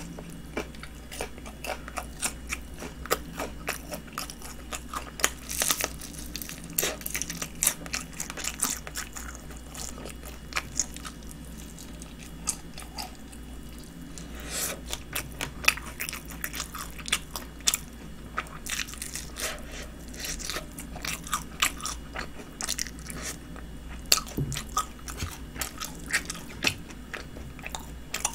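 Close-miked crunchy biting and chewing of crispy honey-glazed fried chicken: irregular sharp crackles and crunches, with wet chewing between bites.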